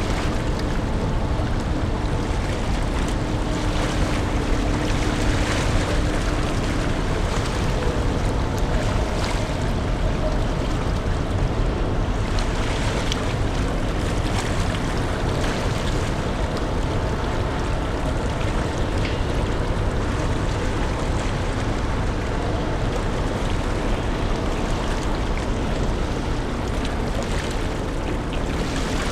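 Steady rumble of a large car ferry's engines and machinery under way, mixed with wind and rushing water. A faint steady hum sits on top and fades out about seven seconds in.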